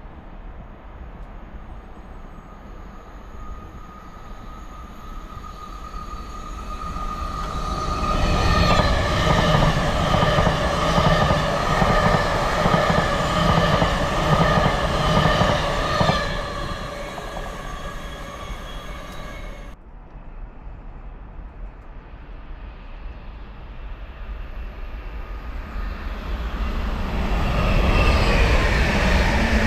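A train passes on the main line. It grows louder over several seconds, runs loud for about eight seconds with steady high tones over the rushing of wheels on rail, then fades. After an abrupt cut, another train approaches and grows loud near the end.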